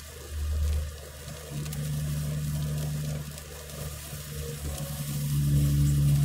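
A car's engine and road noise heard inside the cabin: a low, steady hum that dips and returns, growing louder near the end.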